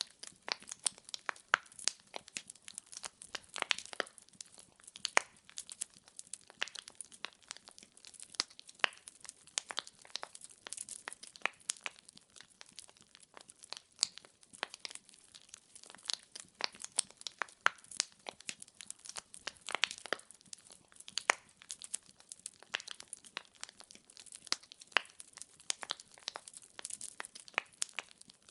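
Wood fire in a fireplace crackling: burning logs pop and snap in a dense, irregular run of sharp clicks over a faint hiss.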